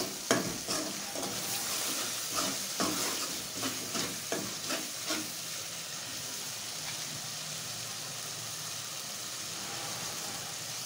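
Tomato-and-spice masala sizzling in ghee in a metal karahi. For about the first five seconds a metal spoon scrapes and clinks against the pan as it is stirred; after that there is a steady sizzle alone.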